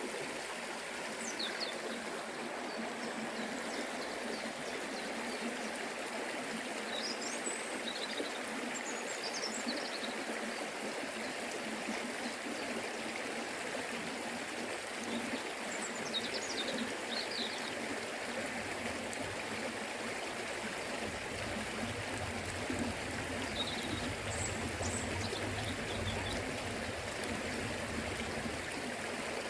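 Forest river flowing with a steady rush of water. A few short, high bird chirps come through at intervals.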